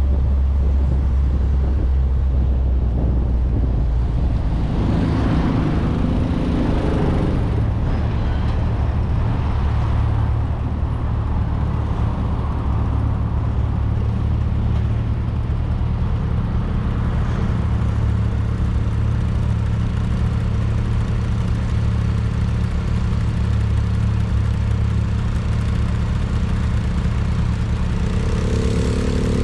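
1994 VW Gol's 1.6 L CHT engine and its road noise heard from outside the moving car, a steady drone with tyre and wind rush. The engine note steps up about four seconds in, and a louder rush of noise swells and fades around five to seven seconds in.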